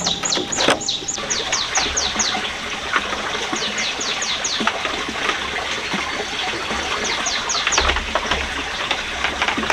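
A bird calling in quick runs of short falling chirps over a steady rush of running water.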